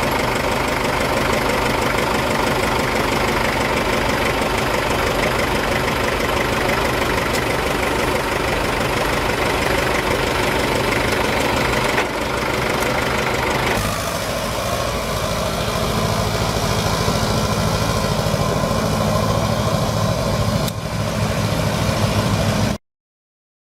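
Case 830 tractor engine idling steadily. Its tone shifts about two-thirds of the way through, and the sound cuts off abruptly near the end.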